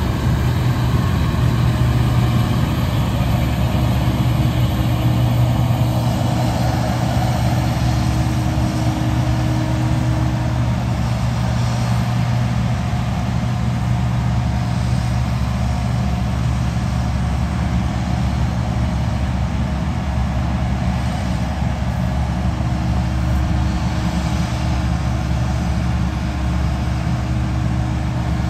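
Tractor engine running steadily while towing a grain cart, a constant low drone with no change in pitch.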